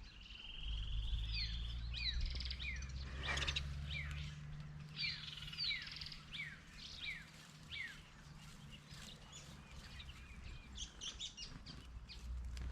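Small birds chirping: a brief trill near the start, then a run of short, quickly falling chirps, several a second, thinning out toward the end. Under them runs a low, steady rumble.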